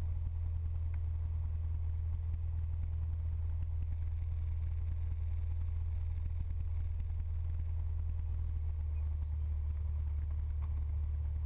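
Cessna 172's piston engine running steadily at low power, a constant low drone with no change in pitch or level.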